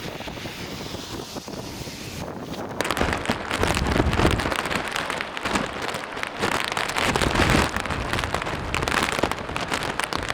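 Typhoon-force wind gusting hard and buffeting the microphone. The gusts get much louder about three seconds in.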